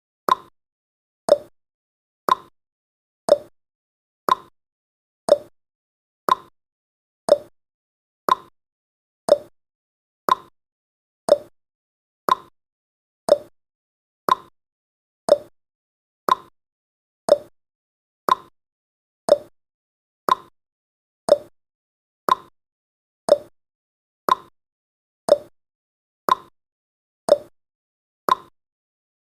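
Countdown timer's ticking sound effect: one short, sharp tick every second, evenly spaced, like a clock.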